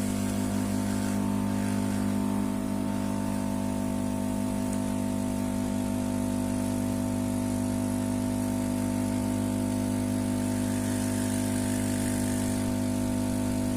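Engine running steadily: a constant, unchanging hum.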